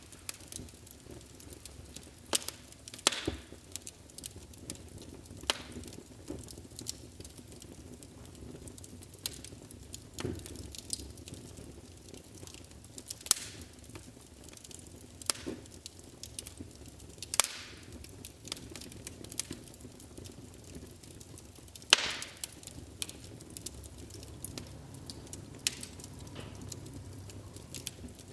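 Wood fire burning in a fireplace, with a low steady hiss and frequent irregular crackles and sharp pops; the loudest pop comes about three quarters of the way through.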